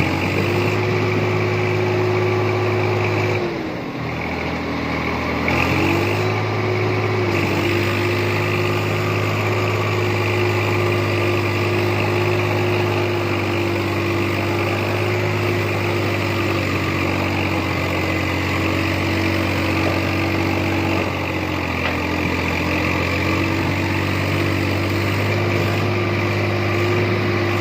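Diesel tractor engine running steadily. Its pitch and loudness drop briefly about three and a half seconds in and climb back about six seconds in, then hold steady with a slight sag around twenty-two seconds in.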